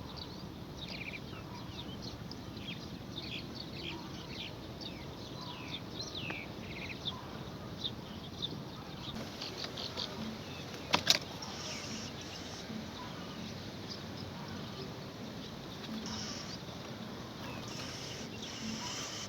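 Birds chirping in a fast run of short, high chirps that thin out after about nine seconds, with one sharp click about eleven seconds in.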